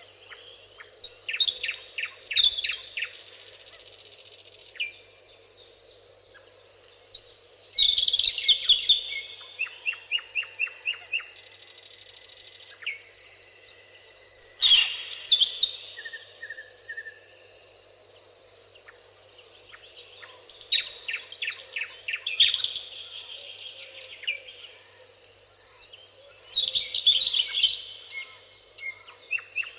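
Songbirds singing in a meadow: a loud song phrase about every six seconds, each ending in a quick run of repeated notes, with other short chirps between, over a steady high-pitched tone.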